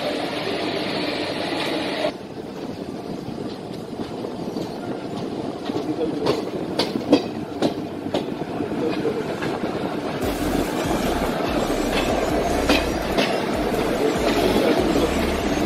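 Passenger train running on the rails, heard from on board: steady wheel-and-track noise, with a quick run of sharp clickety-clack clicks over rail joints about six to eight seconds in. A low rumble joins about ten seconds in.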